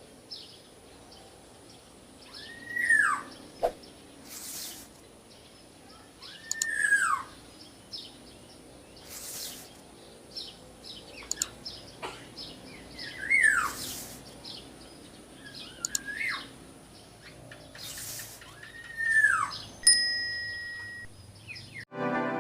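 Black-naped oriole (kepodang) calling: a short nasal call that arches up and falls, given five times a few seconds apart, with short hissing noises between the calls. Music starts right at the end.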